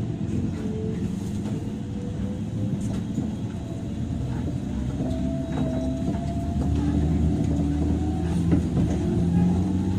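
Running sound inside a JR 103 series electric train's motor car: the DC traction motors and gears whine with tones that slowly rise in pitch as the train picks up speed, over the low rumble of the wheels on the rails. It grows louder in the second half.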